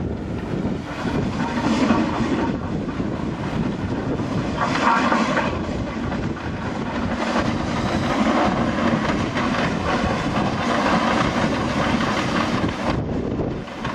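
Steam-hauled train on the move, a steady rumble of wheels and coaches on the rails.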